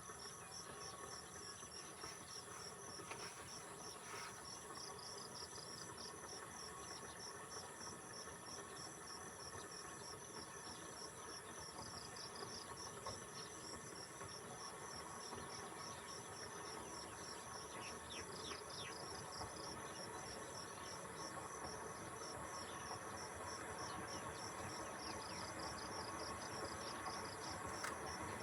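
Crickets chirping in an unbroken, evenly pulsing chorus, over a steady high-pitched insect hum.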